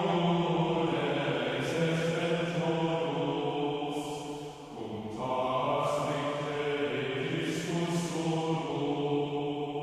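Slow sacred chant sung in long held notes, pausing briefly about halfway through before going on at a new pitch.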